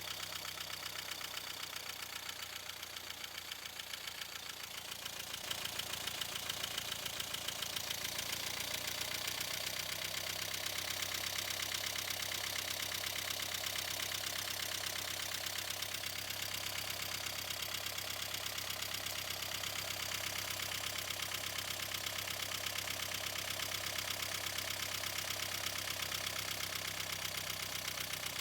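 1.5 dCi four-cylinder common-rail diesel engine idling unevenly, its idle speed shifting and getting louder about five seconds in. The unstable idle is put down to a faulty fuel pressure regulator.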